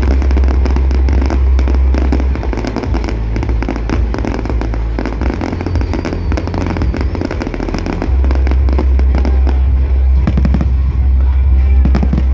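Fireworks display: continuous dense crackling and popping shells with deep booming bursts, recorded loud on a phone.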